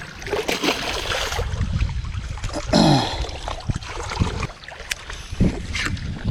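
Water sloshing and splashing with scattered knocks and handling clicks, and one louder, brief burst with a falling pitch about three seconds in.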